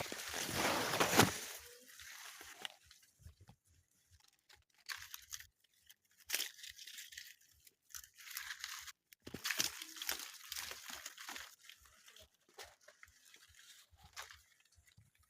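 Footsteps through a maize field, with crunching and rustling of maize leaves and stalks brushing past in irregular bursts, loudest at the start.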